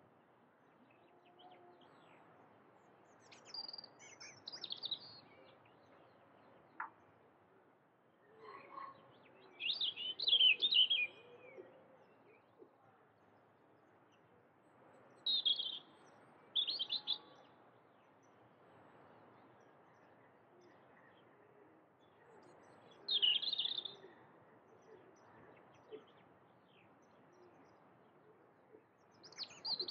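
Bird song: short, high chirping phrases a few seconds apart, over faint steady background noise.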